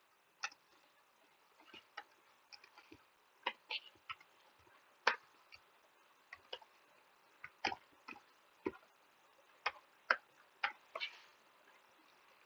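Computer keyboard being typed on: single keystroke clicks at an uneven pace, some close together and some a second or more apart.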